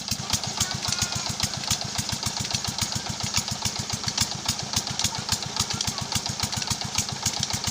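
25 hp Petter diesel engine driving a tubewell pump, running steadily at slow speed with a distinct, even beat of about six firing strokes a second.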